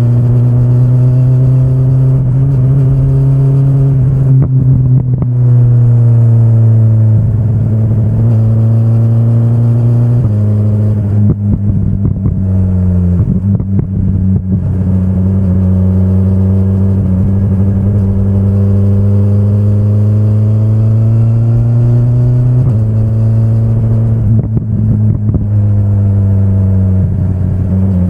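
A 2025 BMW S1000RR's 999 cc inline-four engine is running under way at moderate revs. The revs rise and ease gradually, and gear changes show as sudden steps in pitch four times.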